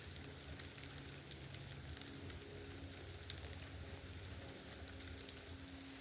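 Steady rain falling, an even hiss of drops with scattered small ticks, over a low steady hum.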